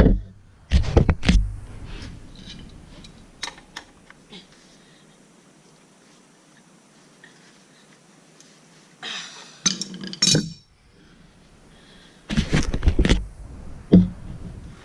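Metal tools clinking and knocking against a dirt bike's rear-wheel and chain parts during chain tightening: scattered sharp clicks, with a few louder bursts of knocking.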